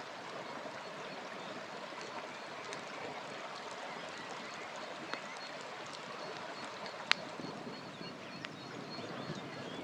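River flowing in a steady rush, with a campfire crackling over it in a few sharp pops, the loudest about seven seconds in.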